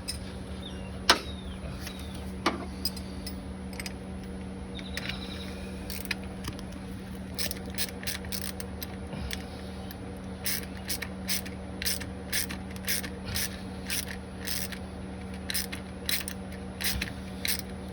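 Ratcheting wrench clicking in short runs as it tightens a nylock nut on a belt tensioner's Heim link, with a couple of sharp metal knocks near the start.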